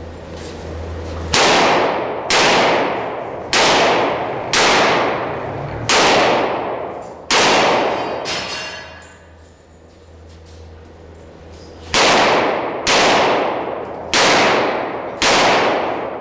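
Ten gunshots fired on a practical-shooting course of fire: six shots about a second apart, then a pause of about four seconds, then four more shots at the same pace. Each shot trails off in a long echo.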